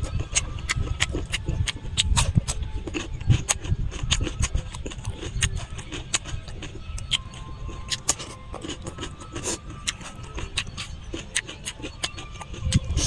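Close-miked eating sounds of grilled pork ribs and raw cucumber: wet mouth smacks and crisp crunches, several a second, over a low rumble.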